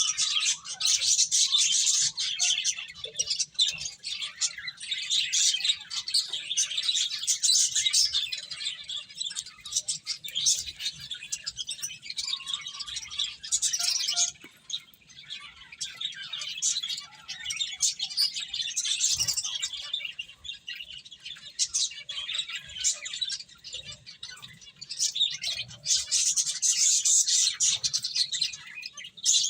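A group of pet finches chirping, many short high calls overlapping without pause, busiest near the start and again near the end.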